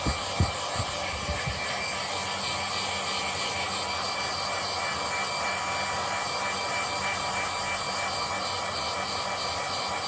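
Steady whir of a small electric motor or fan running, with a few thin whining tones over it and several low knocks in the first second and a half.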